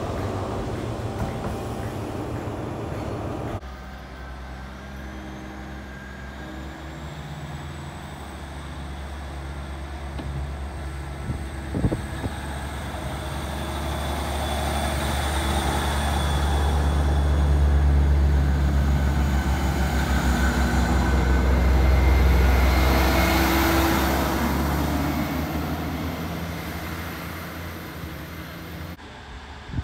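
GWR Hitachi bi-mode Intercity Express Train moving alongside the platform, its underfloor diesel engines running with a low drone and a high whine that rises in pitch; it grows loudest about two-thirds of the way in, then fades. It opens with a few seconds of train noise that cuts off abruptly, and there is a single sharp click about twelve seconds in.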